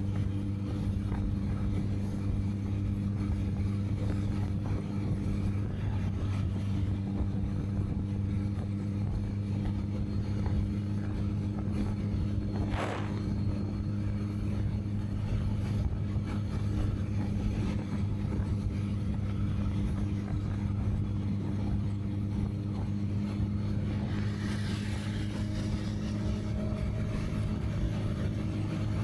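Honda CB650R's inline-four engine running at a steady, even pitch while the motorcycle cruises. There is a short high sound about halfway through, and a patch of hissing noise a few seconds before the end.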